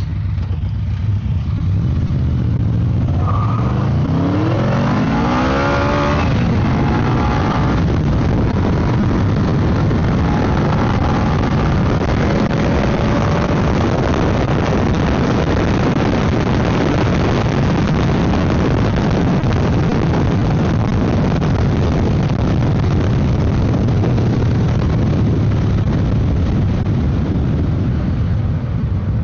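Motorcycle engine revving up under acceleration, its pitch rising a few seconds in, then running steadily at speed under heavy wind rush.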